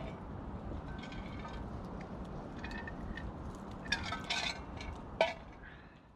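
A few light clinks of hard objects knocking together over a steady low background rush, then one sharp knock, after which everything fades out.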